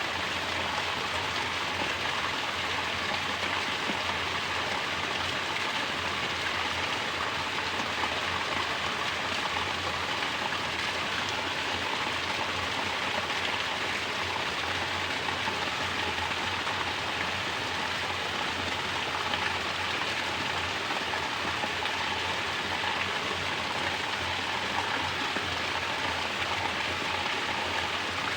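Mountain water pouring down as a natural shower, splashing steadily and evenly without a break.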